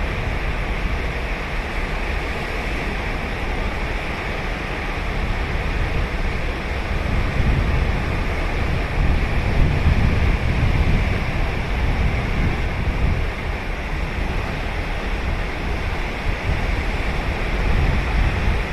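Ocean surf washing onto a sandy beach, a continuous wash that swells louder about halfway through, with a low wind rumble on the microphone.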